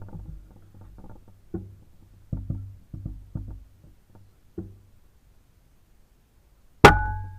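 A few soft, dull knocks, then a single loud, sharp gunshot near the end, followed by a brief ringing tone as it fades.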